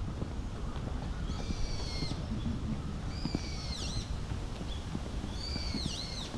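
A bird calling three times, about two seconds apart, each call a cluster of high notes that dips and swoops back up; the calls are odd enough to be taken for a monkey. A steady low rumble runs underneath.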